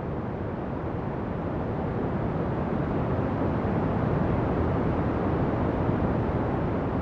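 Ocean waves washing ashore: a steady, low rush of surf that swells slightly in the middle and eases near the end.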